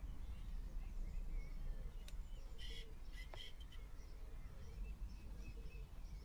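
Faint birds chirping over a low steady rumble, with a couple of short sharp clicks and a brief rustle about halfway through.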